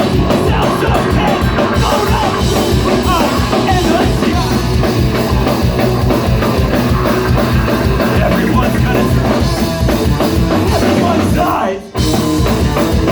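Live rock band playing loud, with drum kit and some singing. The band stops sharply for a moment about twelve seconds in, then comes back in.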